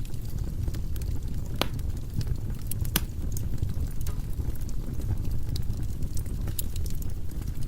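Firewood burning in a fireplace, crackling and popping irregularly over a steady low rumble, with two sharper pops about one and a half and three seconds in.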